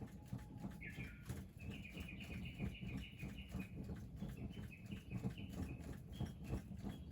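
A small bird calling in runs of short, quick repeated high notes, starting about a second in, over a steady low rumble with scattered faint ticks.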